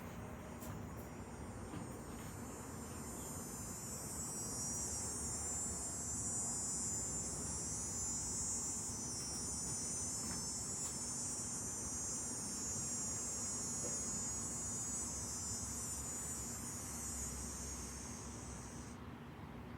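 An insect's shrill, high buzzing drone that swells over the first few seconds, holds steady, then stops abruptly near the end.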